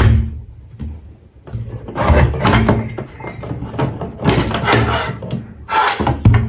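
Workshop handling noises: a sharp knock, then three stretches of rough scraping and sliding with heavy thuds, as wooden parts are moved and knocked together.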